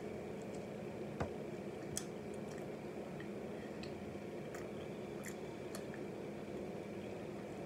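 A person chewing a bite of chicken nugget close to the microphone, with several faint wet clicks and smacks over a steady low room hum.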